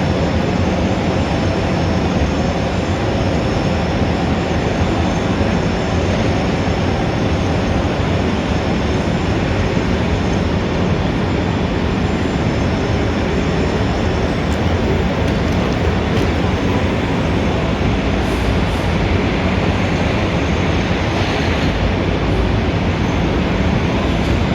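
Steady city traffic din: a continuous, even rumble and hiss of engines and tyres, with no single vehicle standing out.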